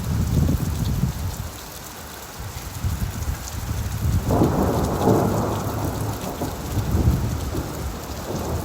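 Rain falling on leaves with a low rumble of thunder; the thunder swells louder about halfway through and rolls on for a couple of seconds before easing.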